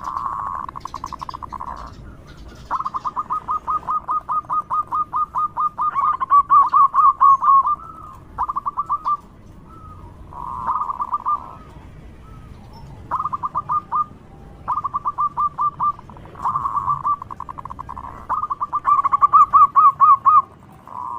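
Zebra dove (perkutut) calling loudly: repeated bouts of rapid staccato cooing notes, each run lasting from under a second to about two seconds, with short pauses between runs.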